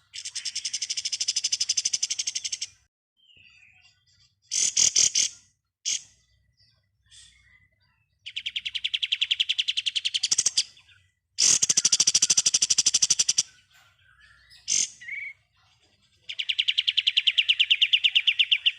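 Kapas tembak songbird singing its 'ngebren' song: fast, pulsed, high-pitched trills of two to three seconds, four of them, with a shorter trill and a few brief notes between.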